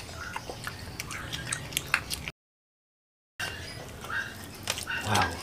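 Close-up eating sounds: wet chewing and lip smacks with a few short squeaky mouth noises. The sound cuts out to dead silence for about a second partway through.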